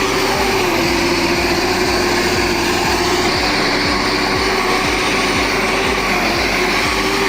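An engine running hard and steadily, with a constant whine over the engine noise.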